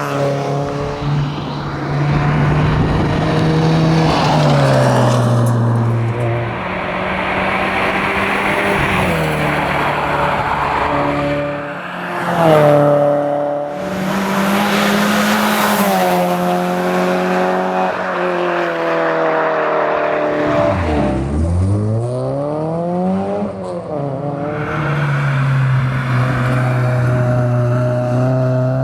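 Porsche 968 CS's 3.0-litre four-cylinder engine driven hard, its note climbing through the revs and dropping back at each gear change. About two-thirds through, the revs fall right down and then climb again.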